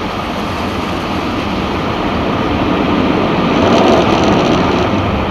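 Automatic car wash tunnel equipment working over the car, heard from inside the cabin: a loud steady rush of spray and machinery noise that builds to a peak about four seconds in.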